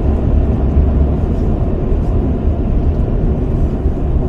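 Steady low road rumble of a moving car, heard from inside the cabin: tyre and engine noise without any sharp events.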